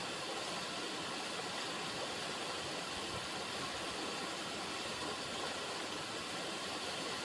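River water running, a steady, even rushing without breaks or splashes.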